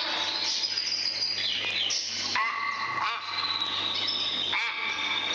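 Myna bird calling: a run of loud whistled and harsh calls, some gliding in pitch, with a steady low mains hum underneath from an old vinyl record.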